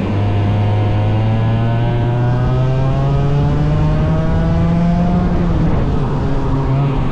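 A 100cc racing engine accelerating under load, its pitch climbing steadily for about five seconds. It then drops suddenly and runs on at a lower, steady pitch.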